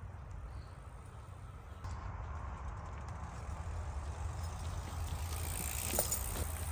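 Mountain bike ridden on a trail: a steady low wind rumble on the microphone over tyre noise on dirt, growing a little louder, with a sharp knock about six seconds in.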